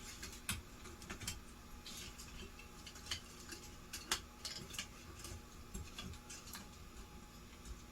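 Faint, irregular small clicks and taps of hands working a ceiling fan's switch-housing circuit board on its plastic standoffs.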